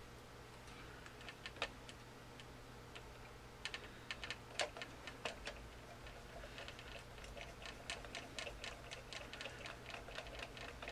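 Light plastic clicks and ticks from the Lemax Eerie Go Round's housing and gear mechanism as it is handled. A few scattered clicks come first, then a quick, fairly even run of small ticks in the second half.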